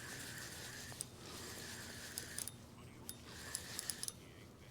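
A fishing reel being cranked in against a hooked fish: a whirring that comes in short spells about every second and a half, with light clicks between them.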